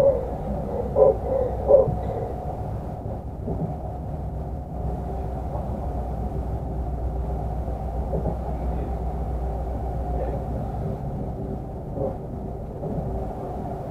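Inside a moving Moscow Central Circle electric train (ES2G Lastochka): a steady low running rumble of the carriage on the rails, with a faint steady hum and a couple of short knocks in the first two seconds.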